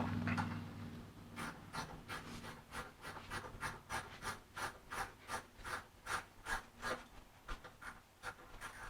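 Rhythmic rubbing strokes, about two a second, that fade near the end. A low hum dies away in the first second.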